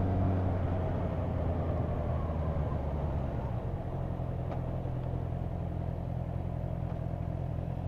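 Motorcycle engine running at a steady pitch under road and wind noise, gradually getting quieter as the bike eases off.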